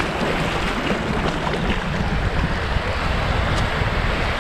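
Waves washing on the beach with steady wind rumbling on the microphone.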